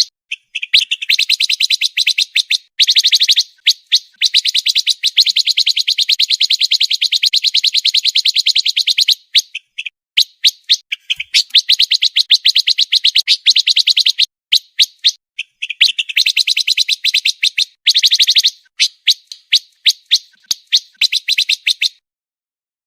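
Pancawarna songbird singing a fast, dense trill: long strings of rapid, sharp high notes with short breaks between bursts, stopping shortly before the end.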